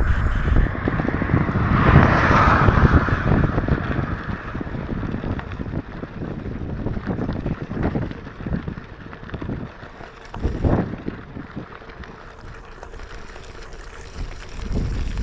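Wind buffeting the microphone of a mountain bike rider in the rain, over the rumble of tyres and the bike on the road. It is loudest in the first few seconds and dies down after that, with one short gust later on.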